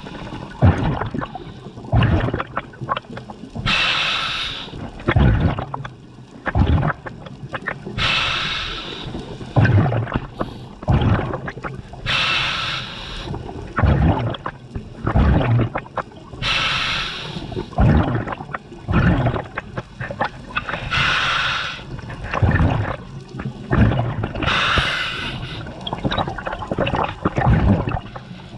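Scuba diver breathing through a regulator underwater, a breath about every four seconds: a hiss from the regulator with each breath, then bubbling and gurgling between breaths.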